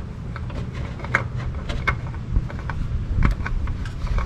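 Irregular light metallic clicks and scrapes as a new spin-on oil filter is fitted and threaded on under the car, over a steady low rumble.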